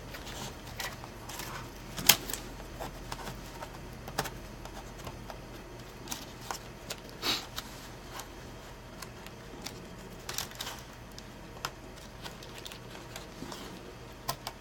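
Scattered light plastic clicks and taps of laptop parts being handled while the keyboard ribbon cable is pushed into its connector, over a faint steady low hum.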